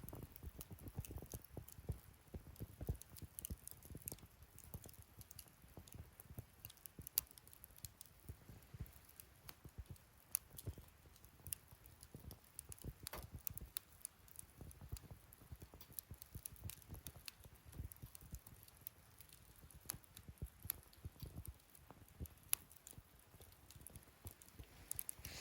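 Wood fire burning in a fire pit: irregular crackles and sharp pops from the burning wood over a soft, low flutter of flames.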